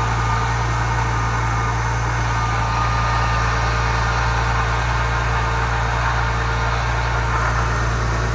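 2000 Porsche 996 Carrera's 3.4-litre water-cooled flat-six idling steadily after a cold start.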